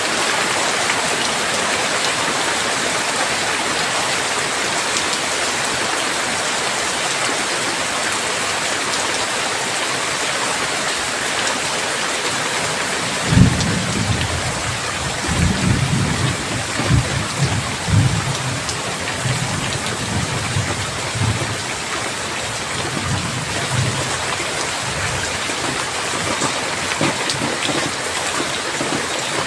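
Heavy rain falling steadily. About halfway through, a sudden clap of thunder opens into low rolling rumbles that swell several times over roughly ten seconds and fade.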